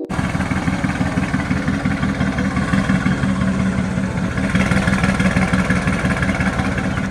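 A sports car's engine running loud and steady at a constant pitch. It grows a little brighter from about halfway through, then cuts off abruptly.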